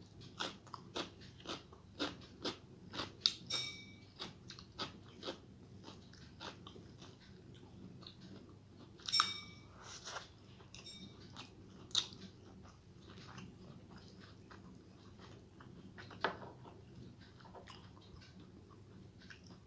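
Close-miked chewing of a mouthful of rice mixed with fried greens: wet mouth clicks and smacks, about two a second for the first few seconds, then more scattered. A few brief high-pitched squeaks are mixed in, the loudest about nine seconds in.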